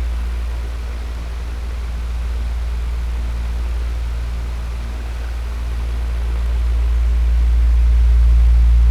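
Electric fan running steadily: a low motor hum under an even rush of air. It grows slightly louder and softer over a few seconds.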